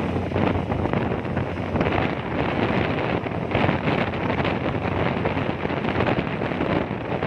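Strong gusty wind buffeting the microphone on a ferry's deck, over the steady low drone of the ferry's engine.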